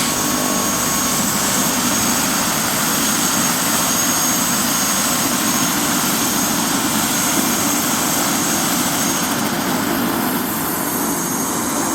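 Helicopter running, a steady engine noise with a thin high whine above it, easing slightly near the end.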